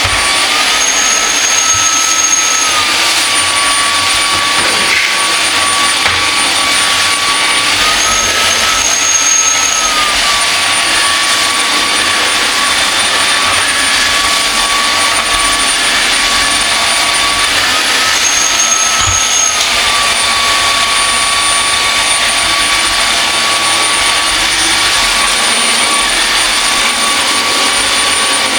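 UWANT D100 cordless wet/dry vacuum mop running on a hard floor: a loud, steady whoosh with a high motor whine. Three times, near the start, about 8 s in and about 18 s in, the whine steps up in pitch for a couple of seconds and then drops back.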